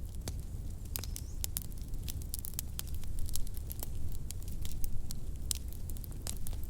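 Wood fire crackling in a fireplace: many sharp, irregular pops and snaps, a few louder ones between about three and five seconds in, over a low steady rumble.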